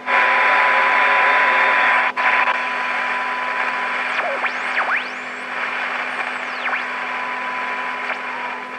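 Marconi model 2004 seven-transistor radio, built by Toshiba, putting out loud static hiss with a steady high test tone through it during alignment. It cuts out briefly about two seconds in, and from about four seconds in whistles glide up and down as the tuning is moved, while the hiss eases off slightly toward the end.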